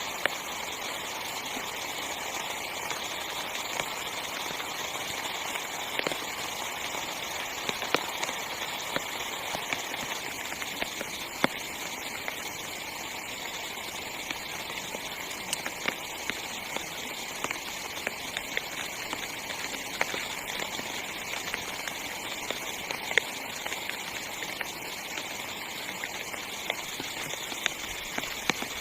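Heavy rain falling steadily on a small tent: a constant hiss with scattered sharper drop taps.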